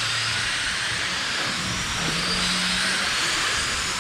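A pack of electric RC dirt oval cars racing: a steady hiss of brushless motors and tyres on the dirt track, with faint motor whine rising and falling as the cars lap.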